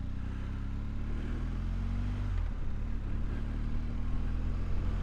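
Motorcycle engine running under way, its note rising a little over the first two seconds, then dipping briefly about two and a half seconds in before holding steady, with road and wind noise.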